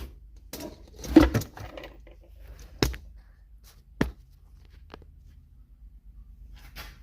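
Chainsaw parts and tools being handled: a short clatter about a second in, then two sharp clicks about a second apart, over a faint low hum.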